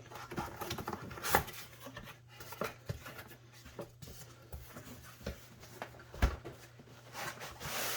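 Cardboard box and packaging being handled: scattered light taps, rubs and rustles, with one louder thump about six seconds in. A faint steady hum runs underneath, and a hiss comes up near the end.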